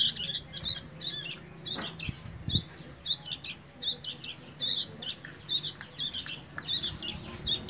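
Sooty-headed bulbul (kutilang) nestlings giving rapid, high-pitched begging cheeps, several a second without a break, calling to be fed.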